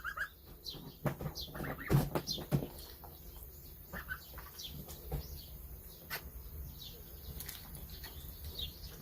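Short, high bird chirps repeated throughout, with a few knocks and thumps about one to two and a half seconds in.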